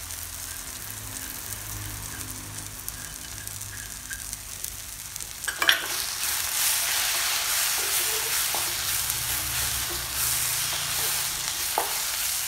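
Shallot, ginger-garlic and ground-spice masala sizzling in oil in a pan as it is stirred. A sharp clatter comes about halfway through, after which the sizzling is louder, with one more small click near the end.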